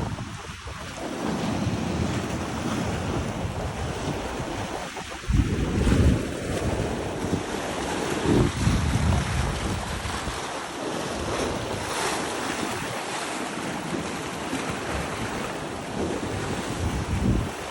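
Ocean waves breaking and washing, with wind buffeting the microphone; a louder surge comes about five seconds in.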